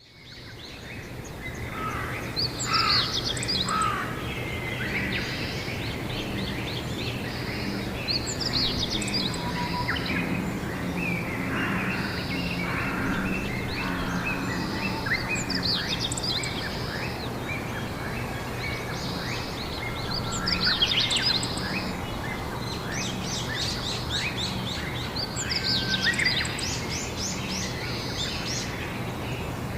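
Songbirds singing outdoors, with bursts of quick chirping phrases every five or six seconds and quieter calls between them. A steady low hum runs underneath. The sound drops out for an instant at the very start, then fades back in.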